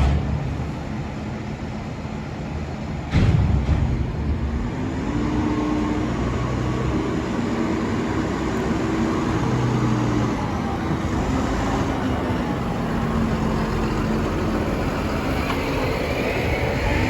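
Diesel engine of a farm machine running under load, its note rising and falling as it works, with a sudden thump about three seconds in.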